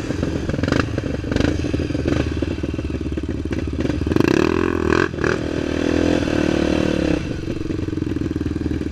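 Single-cylinder trail motorcycle engine running under load over rough ground, the revs rising about halfway through, holding, then dropping back. Sharp knocks and rattles from the bike bouncing over the terrain are heard several times.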